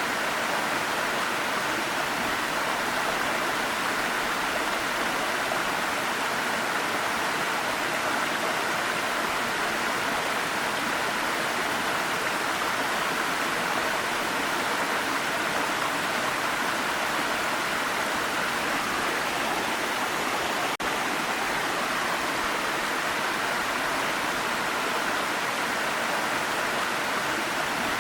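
Waterfall rushing: a steady, even roar of falling water, with one momentary dip in level about three-quarters of the way through.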